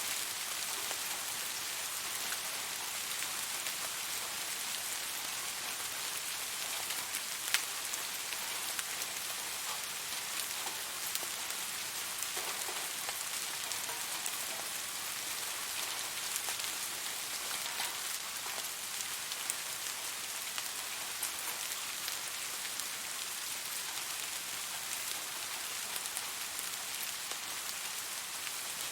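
Steady rain falling on a surface, a dense even hiss with scattered sharper drips, one standing out at about seven and a half seconds in.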